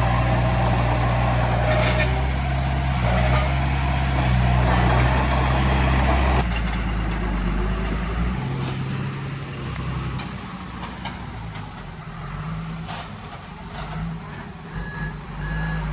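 Heavy diesel engine of earthmoving equipment running loud and steady, then dropping away abruptly about six seconds in, leaving a quieter, uneven engine sound. A few short high beeps come near the end.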